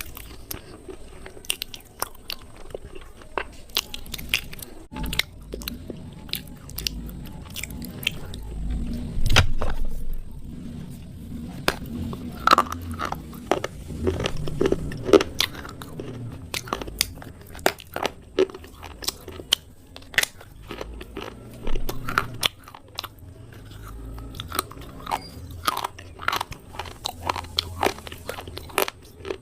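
Slate pencils being bitten and chewed: many sharp, irregular crunches and snaps with chewing in between.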